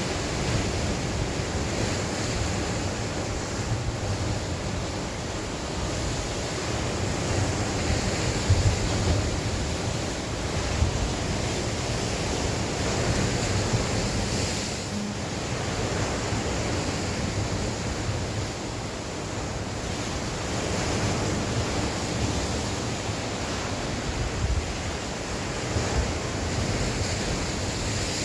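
Sea waves breaking and washing on the shore, a steady rushing surge that swells and eases. Wind blows across the microphone, adding a low rumble.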